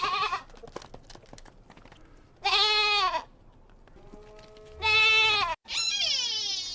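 A goat bleating three times, each call lasting well under a second to over a second. About six seconds in, a different animal's call takes over, falling in pitch.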